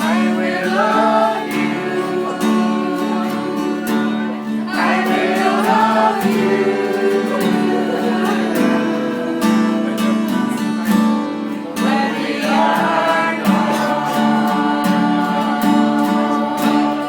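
A song sung with guitar accompaniment, the voice rising and falling over steady held low notes.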